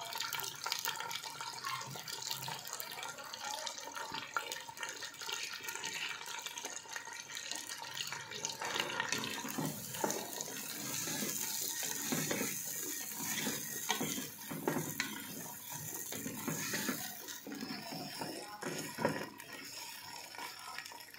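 Boiled chickpeas sizzling in melted butter in a pan. From about nine seconds in, a wooden spatula stirs them, adding scraping and clatter over the sizzle.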